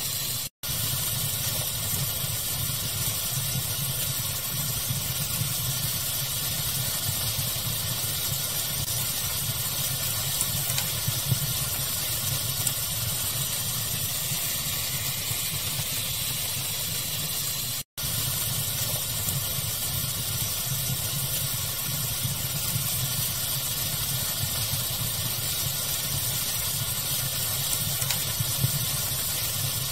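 Fire crackling over a steady pink-noise hiss with a low rumble, with a few slightly louder pops. The sound cuts out for an instant twice, once near the start and once about halfway through.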